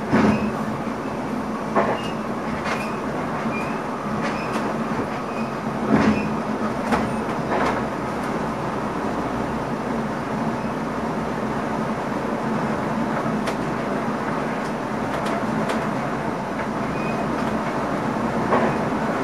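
NS ICM electric multiple unit running along the track, heard from inside the driver's cab: a steady running noise with occasional sharp knocks.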